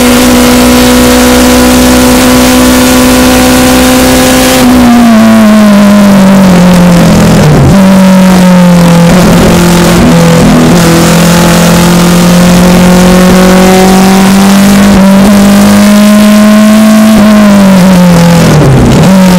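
Onboard sound of a Ford Anglia race car's engine held flat out at top speed, with a loud rush of wind over it. About four and a half seconds in, the driver lifts and brakes: the engine note drops in steps through downshifts with short throttle blips. It then pulls steadily, rising through the bend, and falls again near the end as it brakes once more.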